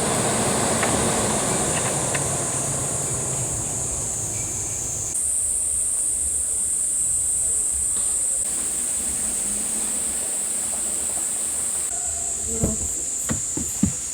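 Steady high-pitched insect chorus, with a low rushing noise underneath for the first five seconds. A few sharp knocks come near the end.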